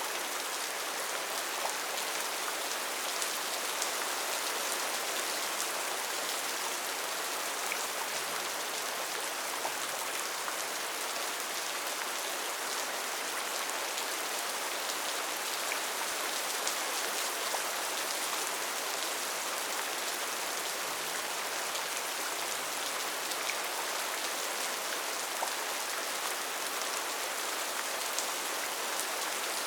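Steady rainfall: an even hiss of heavy rain with scattered individual drops ticking on surfaces, holding constant throughout.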